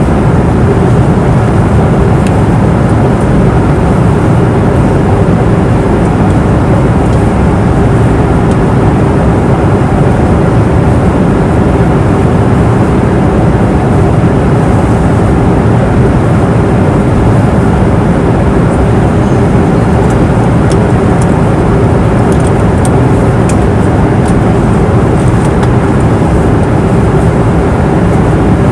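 Steady cabin noise of an airliner in flight: the constant rush of engines and airflow, with a steady hum running through it.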